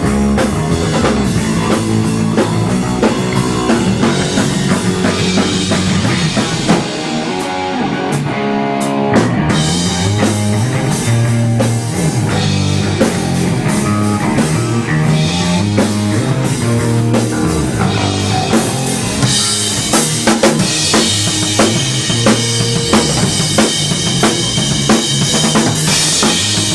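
Rock music played by a band: drum kit with bass drum and snare, and guitar, loud and continuous. The low end drops away briefly around a third of the way in, then the full band comes back.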